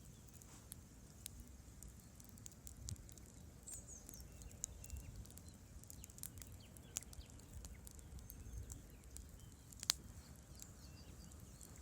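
Quiet wood campfire crackling: scattered sharp pops and snaps of burning logs, with one louder pop near the end, over a low rumble of the flames.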